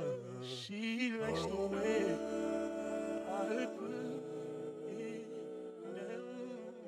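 Song outro of layered, wordless sung vocals with vibrato, in close harmony, fading out near the end.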